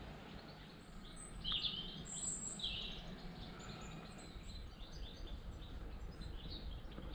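Small birds chirping, a string of short high calls with two louder ones in the first three seconds, over a low steady rumble.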